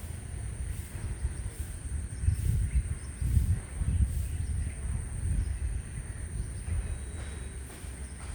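Wind buffeting the microphone in uneven gusts, with faint bird calls in the background.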